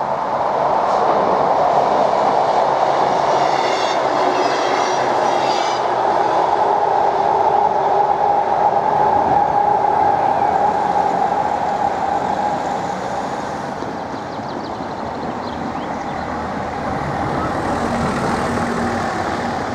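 Passenger train running along the line by a level crossing: a loud steady hum with rail noise that eases off after about twelve seconds.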